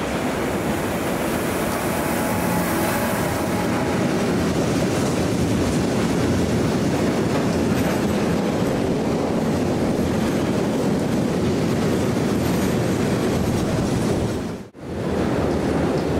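Freight train of tank wagons passing close by behind a Siemens Vectron electric locomotive: a steady, loud noise of wagon wheels running on the rails. The sound drops out for an instant near the end.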